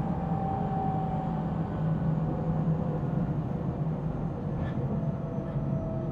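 Inside a JR Central 313 series electric train's motor car while it is running: a steady rumble of wheels on the rails, with faint motor tones that drift slowly downward.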